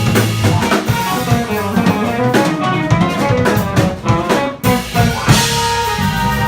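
Live funk band playing: drum kit, bass, guitar and piano together, with a brief drop in the music about four and a half seconds in before the band comes back in.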